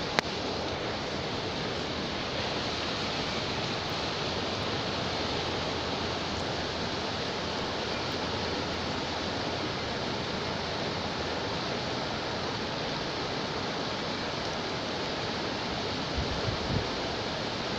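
Mountain river rushing, a steady even roar of water. A brief low bump comes near the end.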